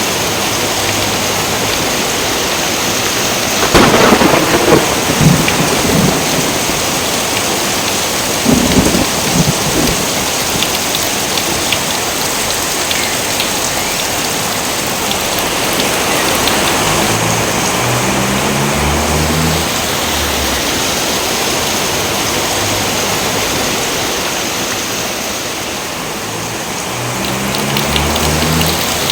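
Steady heavy rain with thunder: a loud crackling thunderclap about four seconds in, rolling for a couple of seconds, and another about nine seconds in.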